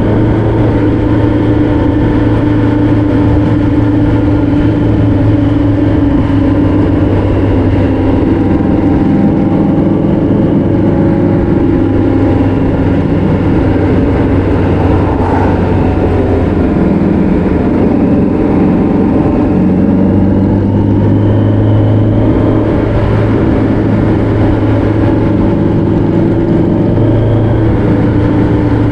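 Vehicle engine running steadily at road speed, its pitch dipping about halfway through and climbing back a few seconds later.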